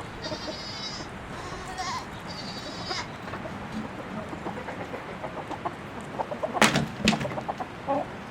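Chickens clucking. Two high, rapid trills come in the first three seconds, short ticks run through the middle, and two sharp, loud sounds come close together about seven seconds in.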